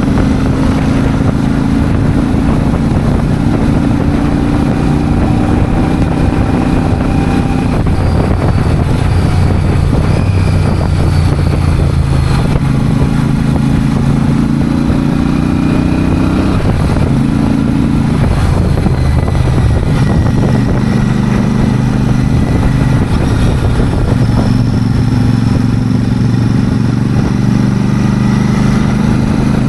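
Royal Enfield Super Meteor 650's parallel-twin engine and exhaust running steadily and loud, its pitch shifting up and down in steps several times as the revs change.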